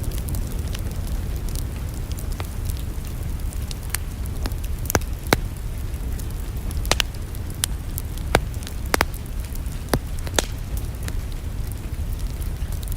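Wood fire crackling in a fireplace: irregular sharp pops and snaps of burning logs over a steady low rumble.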